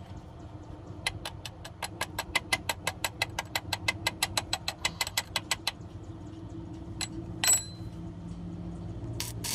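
A fast, even run of sharp metallic clicks, about eight a second for nearly five seconds, like a tool ratcheting, over a steady low engine-like hum. A couple of separate knocks follow, and a burst of hiss starts near the end.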